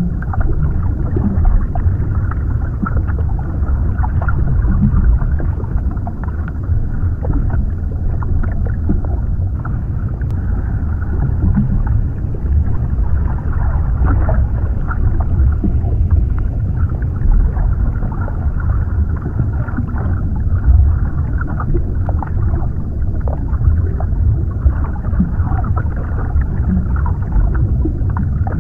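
Underwater ambience: a steady deep rumble with muffled bubbling and faint crackling.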